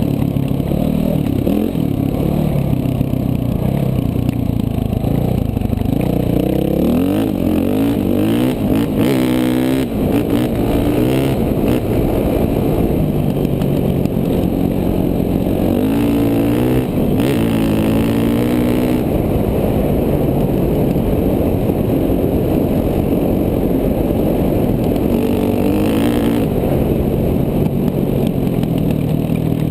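KTM 450 dual-sport motorcycle's single-cylinder four-stroke engine running under throttle, its pitch climbing and dropping again and again as it is revved up and eased off.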